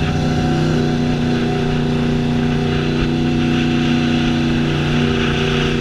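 Honda VFR750F's V4 engine running at a low, nearly steady speed through an open exhaust with no muffler, heard from on the bike while riding slowly; the engine note shifts slightly about a second in and again near the end.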